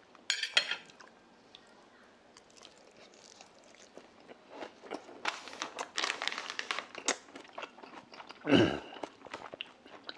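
A man chewing a mouthful of grilled eel and rice wrapped in boiled cabbage, close to the microphone. There is a bite about half a second in, then a run of wet, clicky chewing sounds, busiest in the middle. Near the end comes a short hum that falls in pitch.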